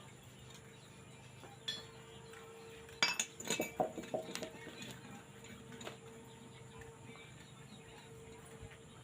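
Pieces of metal clinking and tapping, with a quick ringing cluster of strikes about three seconds in and single taps before and after, over a steady low hum.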